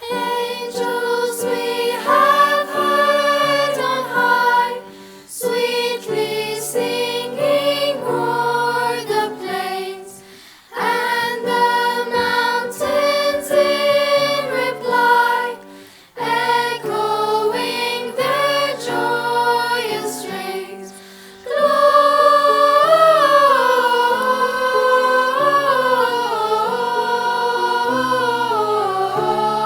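Choir singing in phrases of about five seconds with short breaths between them, then one longer phrase from about 21 seconds in.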